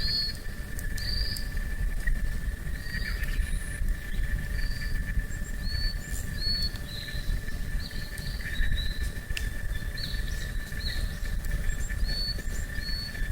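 Outdoor nature ambience: a bird repeats short, high call notes about once a second over a steady, high insect drone. A few faint campfire crackles and a low rumble lie underneath.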